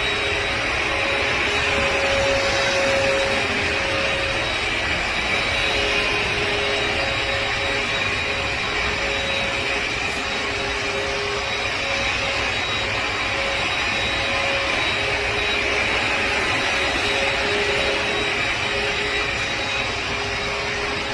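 Suction motor of a vacuum cleaner or carpet cleaner running steadily, with a high whine over the rushing air.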